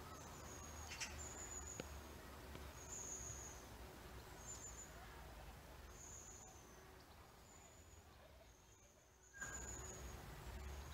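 Faint outdoor ambience: a bird repeats short high-pitched notes about once a second over a low rumble.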